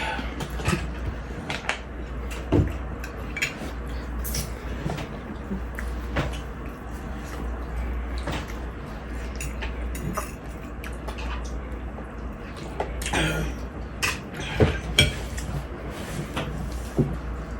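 Forks and utensils clinking and scraping against bowls while eating, in irregular short clicks with a few louder knocks near the end, over a steady low hum.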